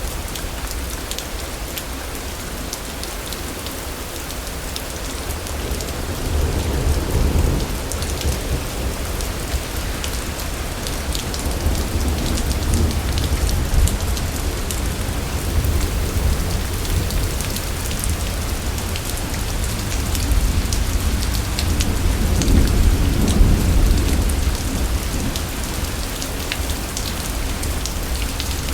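Steady rain with fine patter of drops, and two long rolls of distant thunder, one a few seconds in and a louder one near the end.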